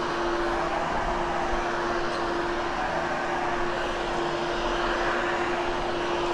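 Hoover Hush Tone upright vacuum cleaner running steadily over shag carpet: an even motor and airflow noise with one steady whine held throughout.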